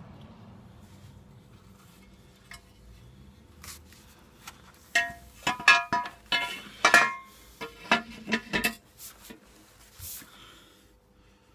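Light metal clinks and knocks, bunched in the middle with a few ringing briefly: metal parts and tools handled while a motorcycle's oil pan is offered up with a new sump gasket.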